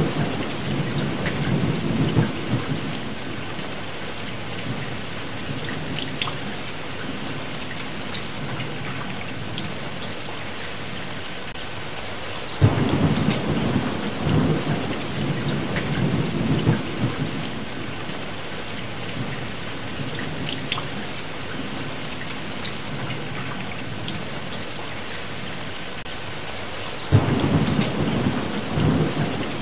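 Steady rain with rolling thunder. One peal is dying away at the start, a second opens with a sharp crack about thirteen seconds in and rumbles for a few seconds, and a third rolls in near the end.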